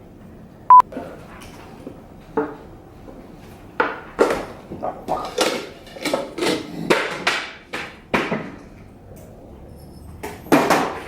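A short, loud, single-pitched beep, then a run of irregular knocks or bangs, about two a second, and one more near the end.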